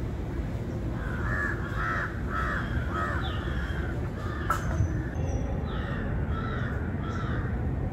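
A bird calling over and over, about ten short calls, over a steady low rumble.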